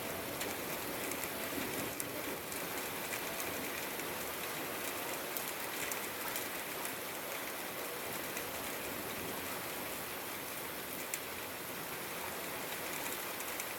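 Steady rain falling, with a dense patter of individual drops ticking on a hard surface over an even hiss.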